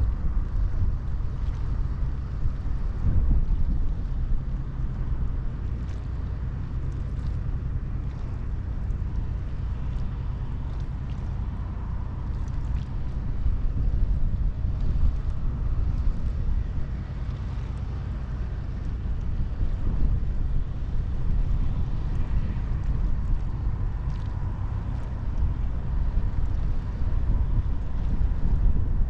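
Wind buffeting the microphone, a steady low rumble that rises and falls, with a faint noisy hiss above it.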